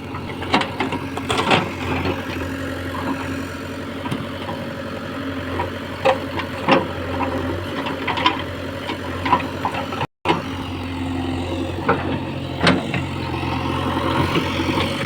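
Heavy diesel engine running steadily, with sharp knocks and clanks scattered over it.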